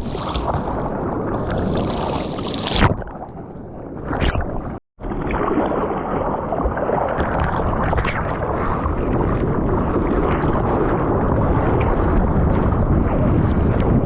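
Steady rush of water and wind on an action camera's microphone, in the surf. It cuts briefly to silence about five seconds in, then carries on.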